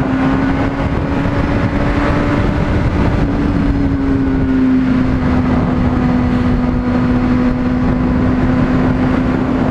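Honda CBR600RR inline-four engine running at a steady cruise, holding one even engine note, under a constant rush of wind noise.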